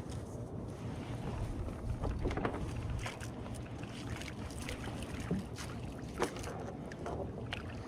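Wind buffeting the microphone on a kayak, a steady low rumble, with scattered small clicks and taps and one louder tap about six seconds in.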